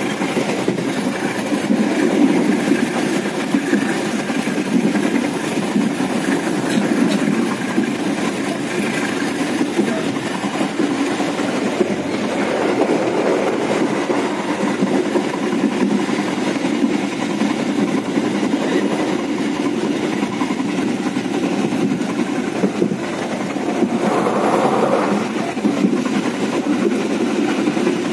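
A Walahar Express economy passenger coach running at speed, heard from inside: a steady rumble of wheels on the rails, swelling louder for a moment near the end.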